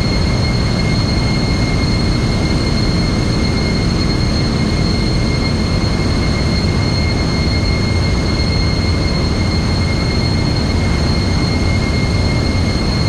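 Container ship engine-room machinery running: a loud, unchanging drone with a constant high whine over it.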